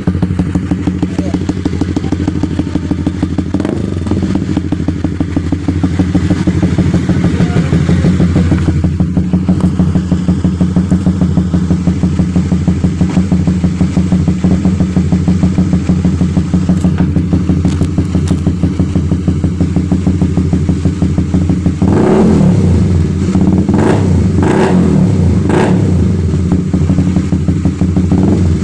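Honda CB150R single-cylinder engine, bored up to 250 cc and breathing through an aftermarket AK Profik exhaust, idling with a steady throb. It is then revved in a series of quick throttle blips over the last several seconds.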